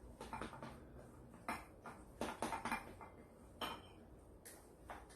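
Faint, irregular clinks and knocks of eating utensils against a bowl as bibim-myeon noodles are mixed with seasoned laver flakes.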